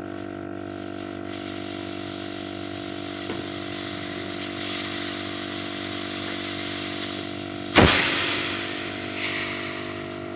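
Compressed gas hissing through a refrigerator's pipework during flushing, growing stronger, then a sudden loud rush of escaping gas about eight seconds in that tails off, with a smaller rush a second later.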